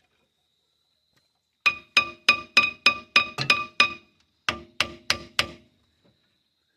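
Hammer striking steel on a rusted truck front hub assembly: a quick run of about eight ringing metallic blows at roughly three a second, a brief pause, then four more.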